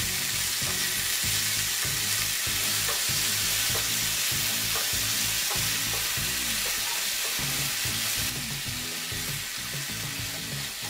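Chopped bottle gourd leaves and potato pieces sizzling in hot oil in a pan while a wooden spatula stirs them to wilt the leaves down, with scattered light clicks and scrapes of the spatula against the pan. The sizzle eases a little about eight seconds in.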